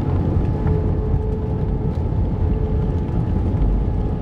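Airbus A320 cabin noise: a steady low rumble with a steady engine whine running through it.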